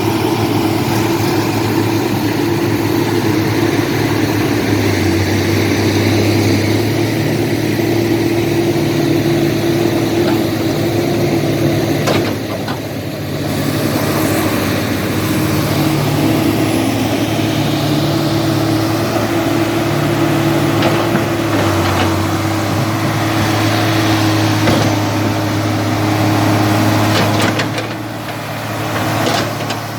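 Heavy diesel engines of a Komatsu PC200-8 excavator and a D70LE bulldozer running steadily under working load, the engine note shifting as the machines strain in the mud, easing briefly twice.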